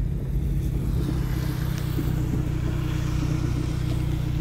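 Car engine running steadily at low revs, heard from inside the cabin, with a faint steady hiss over it.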